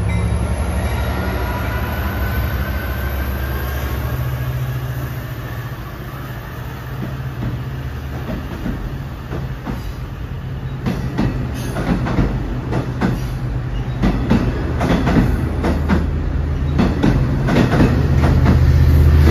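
LIRR DM30AC dual-mode diesel locomotive hauling bilevel coaches out of the station: a steady engine hum with a rising whine as the train picks up speed, then rapid clicking of wheels over rail joints from about halfway on. The engine hum grows louder again near the end as a second locomotive passes.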